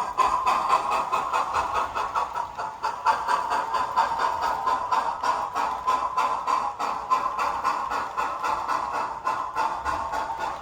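Model train running steadily along the track behind a model Union Pacific FEF-3 4-8-4 steam locomotive, with a steady hum and a rapid, even clicking rhythm.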